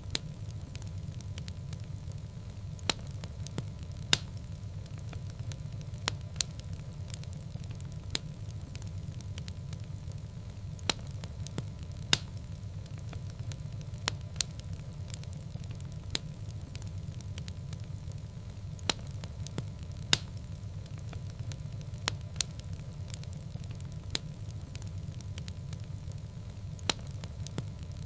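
Wood fire burning in a fireplace: a steady low rumble of flame with irregular sharp crackles and pops, a few of them much louder than the rest.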